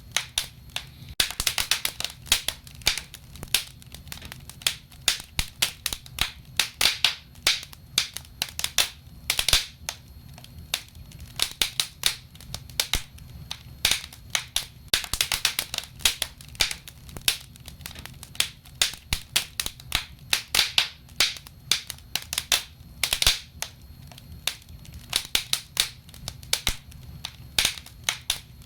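Wood fire burning in a fireplace: irregular crackles and sharp pops, some in quick clusters, over a low steady rumble.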